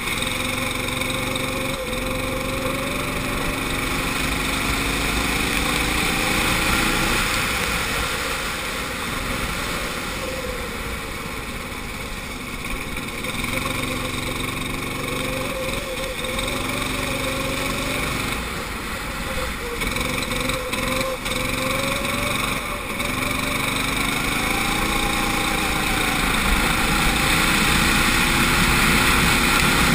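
Kart engine heard onboard, its pitch climbing as it accelerates and dropping off again, over and over, as the kart laps the circuit.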